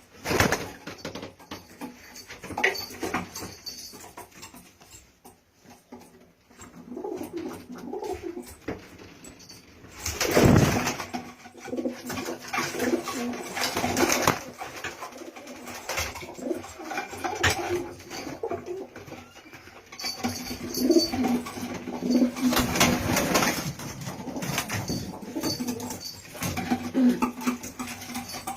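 Domestic pigeons cooing over and over, with louder noisy bursts about ten seconds in and again about twenty-three seconds in.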